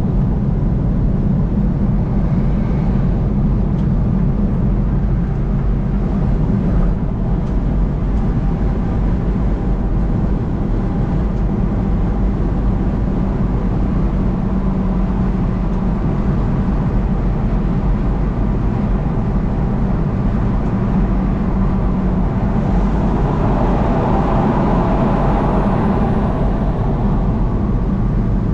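Steady drone of a vehicle driving at highway speed, tyre and engine noise, with a louder rushing swell for a few seconds about twenty-three seconds in.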